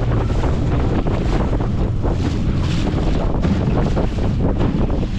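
Heavy wind buffeting the microphone on a small motorboat running through choppy water, with the boat's motor droning low underneath.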